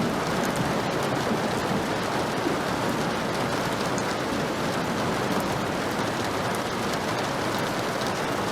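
Heavy rain falling steadily: a dense, even hiss with fine drop ticks.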